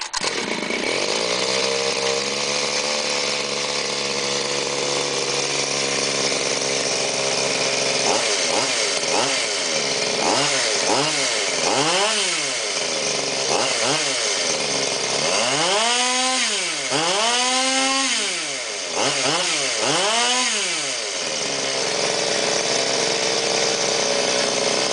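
Goped X-Ped's Zenoah G230RC 23cc two-stroke engine with a G2D expansion-chamber pipe, idling, then blipped up and down a dozen or so times in quick revs from about a third of the way in, the highest ones near the middle, before settling back to idle.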